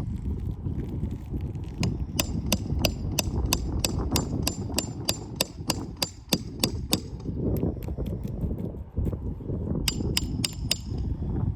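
Hammer striking, a rapid run of sharp metallic taps at about four a second, stopping and then resuming for a short burst near the end, over a steady low rumble; consistent with nailing roofing material during a hip shingle repair.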